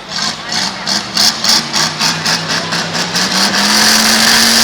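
Demolition derby car's engine revving, with a rapid, even clatter of about five strokes a second; about three seconds in the engine pitch rises and holds as the car tries to get moving again.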